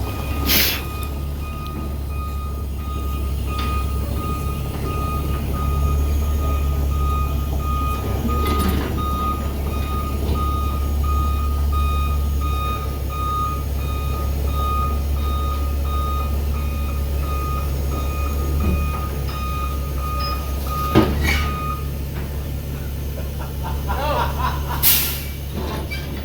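A heavy vehicle's reversing alarm beeping steadily over a low idling diesel engine, the beeps stopping about 21 seconds in. There are short bursts of air hiss near the start and again near the end.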